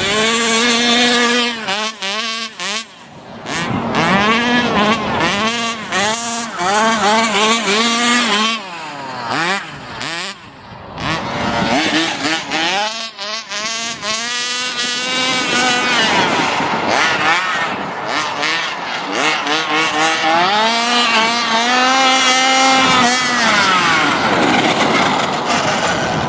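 Small 30cc two-stroke engine with a tuned pipe in a 1/5-scale RC monster truck, revving up and down over and over as it is driven, with brief drops in revs about two seconds in and again around ten seconds.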